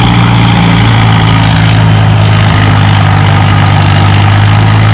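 Tractor engine running steadily under load at a tractor pull, a loud, unbroken deep drone with no change in pitch.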